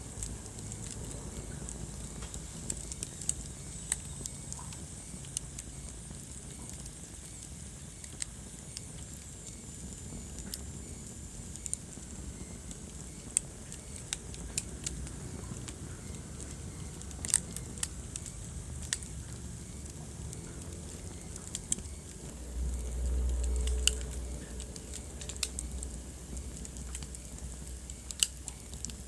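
Wood fire burning in a fireplace: scattered sharp crackles and pops over a soft steady hiss, with a low rumble of flame swelling briefly a little over three quarters of the way through.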